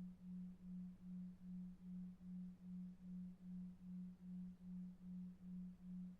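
A low tone pulsing evenly about two and a half times a second, a 2.5 Hz delta-wave sleep tone, over faint brown noise.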